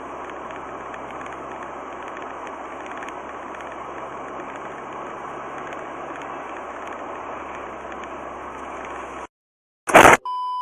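Steady road and engine noise of a moving car, heard through a dashcam's microphone. It cuts off abruptly near the end, and a brief loud burst follows.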